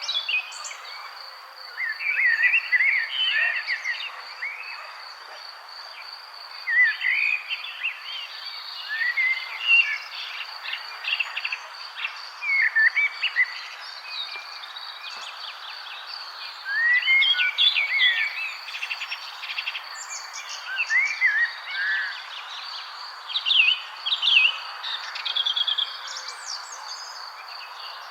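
Songbirds chirping and singing in short, loud phrases every couple of seconds over a continuous high-pitched insect trill and a steady background hiss.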